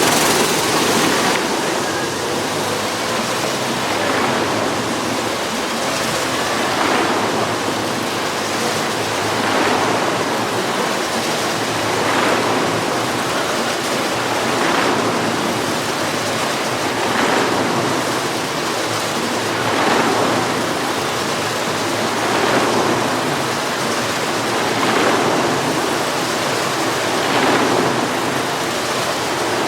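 Racing go-kart engine running hard as the kart circles the wall, swelling loud as it sweeps past about every two and a half seconds, lap after lap.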